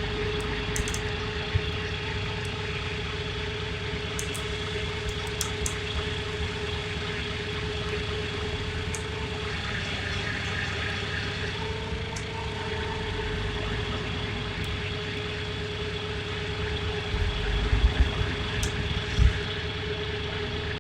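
Heavy truck engine running steadily with a constant whine over it. A few low thumps come near the end.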